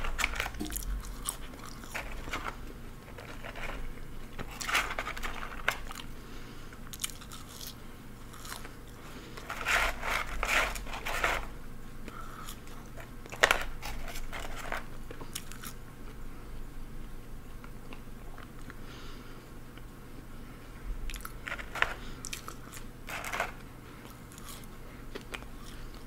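Close-miked eating sounds: biting, crunching and chewing of fast food, in irregular clusters, the loudest about halfway through, with some crackle of paper food packaging being handled.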